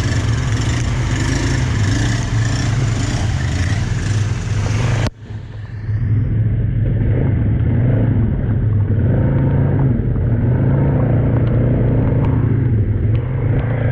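Polaris 570 ATV's single-cylinder engine running steadily under way, with a loud hiss over it that cuts off suddenly about five seconds in, leaving the engine alone.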